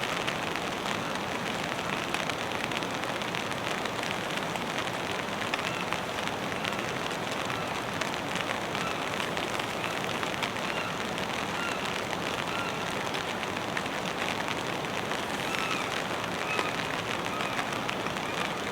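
Steady light rain, drizzle falling with a dense patter of fine drops. A few faint short chirps come through it in the second half.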